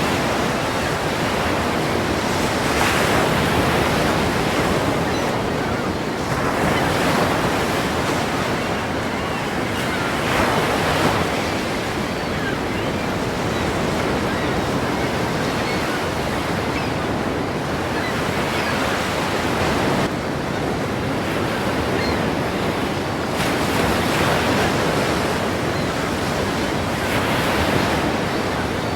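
Ocean waves crashing against a pier: a continuous wash of surf that swells and breaks again every few seconds.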